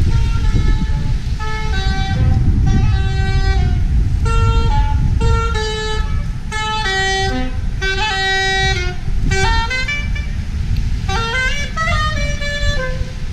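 A series of short pitched tones stepping up and down like a tune, with quick rising runs near the end, over a heavy low rumble of outdoor city noise.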